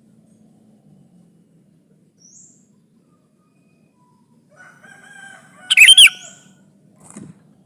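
Sooty-headed bulbul calling: a faint rising note about two seconds in, then a short run of loud, high calls just before six seconds.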